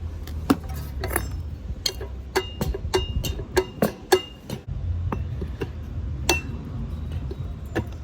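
Hand tools working on a walk-in cooler's condenser fan motor: a quick run of sharp clinks and taps, some ringing briefly, over a steady low hum that drops out for about half a second midway.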